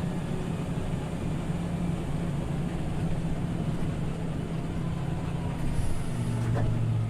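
Scania OmniLink CL94UB city bus heard from inside while moving: the diesel engine's steady drone over road noise, its note dropping lower about six seconds in.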